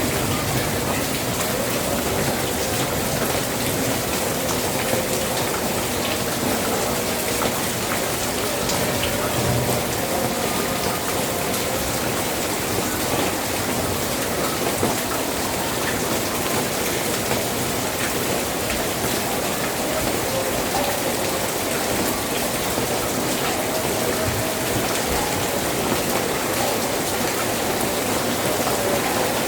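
Steady heavy rain falling, with many small drop ticks on surfaces through an even hiss.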